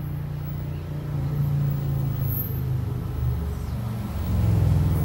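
NJ Transit Arrow III electric multiple-unit train approaching at speed without stopping: a low rumble that grows louder near the end as it nears.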